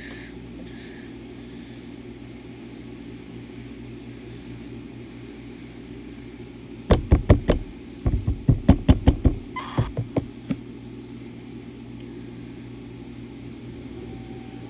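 A rapid run of sharp knocks: four in quick succession about seven seconds in, then about a dozen more over the next two and a half seconds, over a steady low hum.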